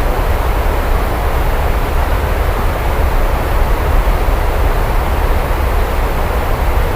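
Steady rain falling, an even hiss with a constant deep rumble underneath and no separate thunderclaps.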